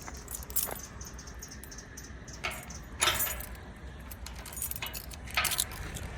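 Small metal objects jingling and clinking in several short bursts, the loudest about three seconds in, over a low steady hum.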